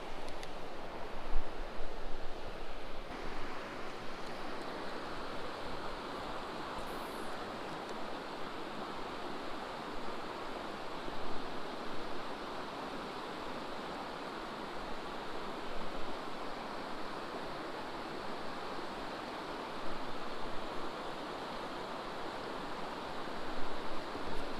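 Creek water rushing steadily over rocks, with a few brief louder bumps along the way.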